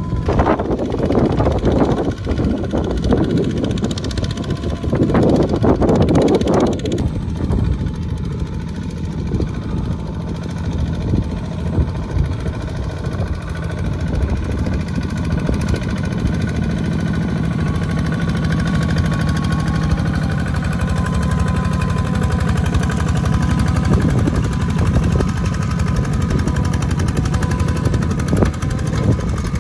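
Mini farm tractor's diesel engine running with a rapid, steady chugging. It is louder and rougher for about the first seven seconds, then settles to an even run.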